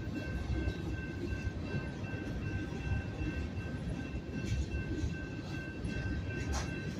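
Freight cars of a manifest train rolling slowly over a grade crossing with a low, steady rumble and a few sharp clicks in the second half. The crossing's electronic warning bell rings steadily over it.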